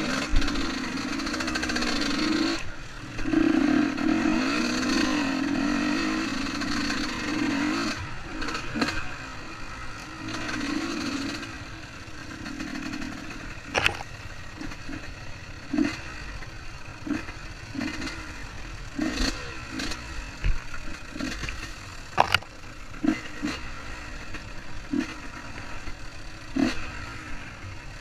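Dirt bike engine revving, loud and wavering for the first dozen seconds, then fainter with short blips of throttle every second or two.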